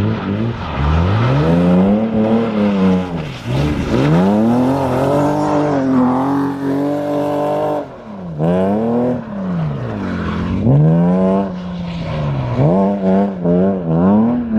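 BMW 328is's M52 straight-six revving hard through drift runs: the engine pitch climbs, holds near the top for a second or so, then drops, over and over. The longest pull carries a rushing hiss on top.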